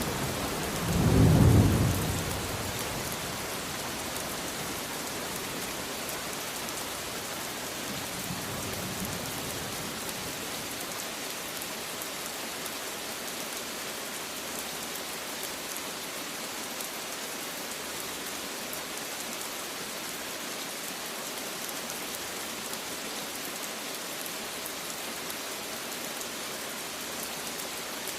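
Steady rain falling, with a loud low rumble of thunder about a second in and a fainter rumble around eight seconds; after that, rain alone.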